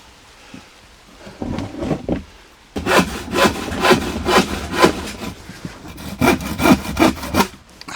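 Hand saw cutting through a length of wooden board: a few light starting strokes, then steady back-and-forth sawing at about three strokes a second that stops shortly before the end as the piece is cut through.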